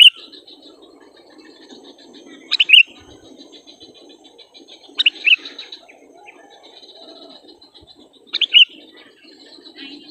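Sooty-headed bulbul (kutilang) giving short, loud two-note calls, four times at intervals of about three seconds, over a steady high chatter.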